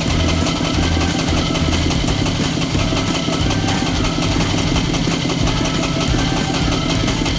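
Diesel engine of a self-propelled mini concrete mixer running steadily, with a low pulse repeating about one and a half times a second.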